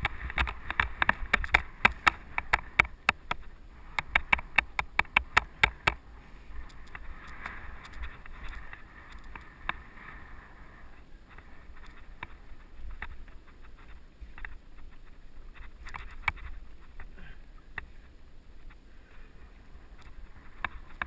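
Mountain bike rattling over rough trail: a dense run of sharp clicks and knocks for about the first six seconds, then a softer rushing with only scattered clicks.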